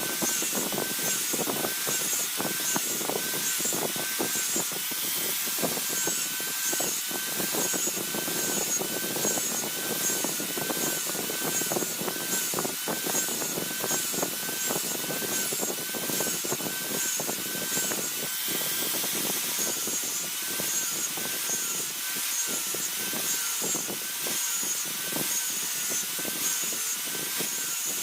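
Steel dao blade made from a car leaf spring being worked with a continuous grinding or filing sound, a rubbing noise with a thin tone that wavers about once a second.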